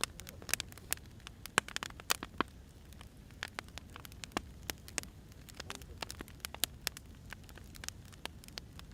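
Firewood burning, crackling with irregular sharp pops and snaps over a low steady rumble of the fire.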